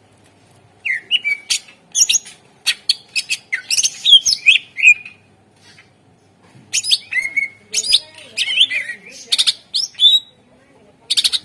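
Cucak ijo (green leafbird) singing vigorously: rapid runs of sharp chips and quick whistled notes. There are two long phrases with a pause of about a second and a half between them, then a short burst near the end.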